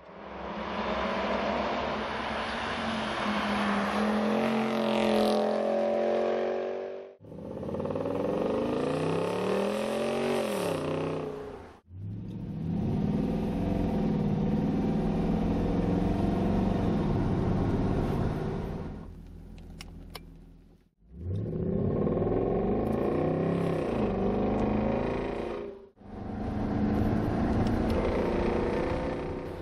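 Jaguar XK V8 running through a KKS-Performance electronic valve-controlled stainless steel exhaust, revving with the pitch rising and falling. It comes in several separate takes that cut off abruptly every five to ten seconds.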